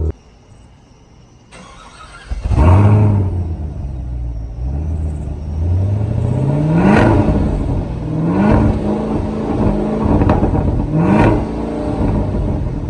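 Sports car engine accelerating hard through several gears, its pitch climbing and dropping back at each upshift, starting about two seconds in.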